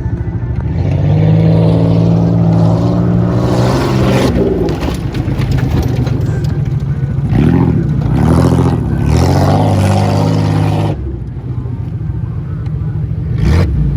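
Car engine running hard under load, its speed rising and falling several times, then easing off about eleven seconds in. A couple of sharp knocks near the end.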